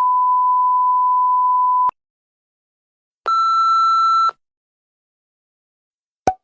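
A steady pure beep at about 1 kHz held for about two seconds, the standard censor bleep. After a pause comes a second, brighter beep lasting about a second, then a single short click near the end.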